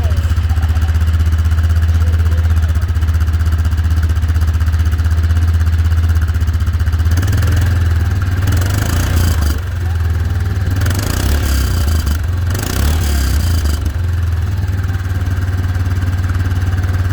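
2009 Kawasaki Wolverine 450 ATV's single-cylinder four-stroke engine running through its stock muffler: a steady idle, revved twice, about seven and about eleven seconds in.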